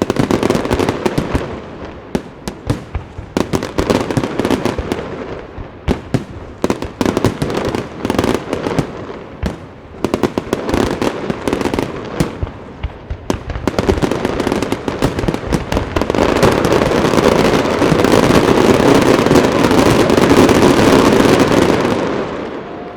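Aerial fireworks firing in rapid succession: many sharp bangs and crackle, which thicken into one continuous barrage for the last several seconds and then stop just before the end. This is the finale of the display.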